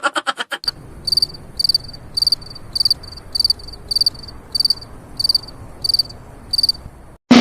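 Cricket chirping: a steady series of high, pulsed chirps, about one every half second, over a faint hiss. It cuts off abruptly near the end. A quick rattle of clicks ends in the first half second.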